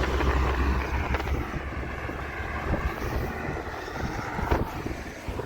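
Strong wind buffeting the microphone during a bicycle ride: a steady rush with a heavy low rumble that eases after about three seconds, and a couple of brief knocks.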